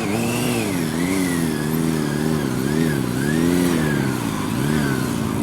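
Motorcycle engine revving during drift riding, its pitch swelling up and dropping back about six times as the throttle is worked.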